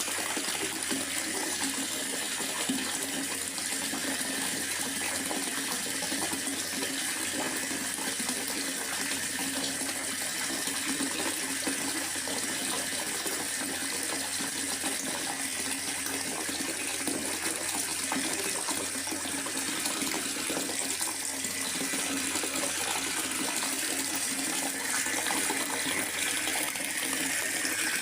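Steady rain falling in a forest, an even, continuous hiss of rainfall.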